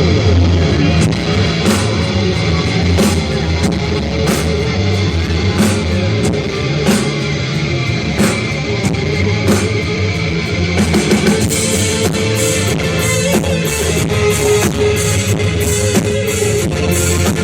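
Live rock band playing an instrumental passage: electric guitar and a strong bass line over drum kit. The drumming grows busier with more cymbal hits about eleven seconds in.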